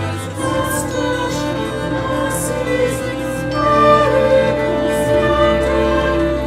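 Choral music: voices singing long held chords over a low sustained bass note, which shifts pitch about half a second in and again near the end.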